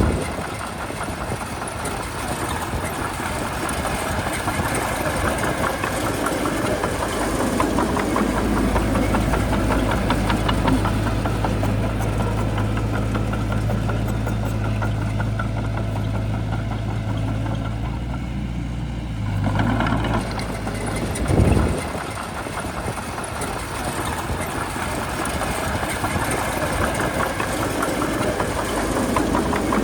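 Shantui bulldozer's diesel engine running, its note shifting with load, with a single loud thump about two-thirds of the way through.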